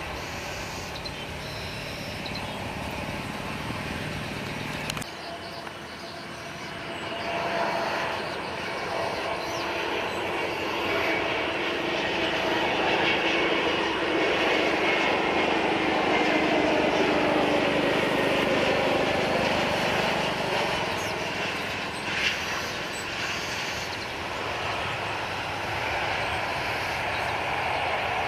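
Airliner's engines as the aircraft passes on the runway: a steady engine noise that swells to its loudest about halfway through and then eases off, with slowly falling whining tones. An abrupt cut about five seconds in ends a different, lower steady engine hum.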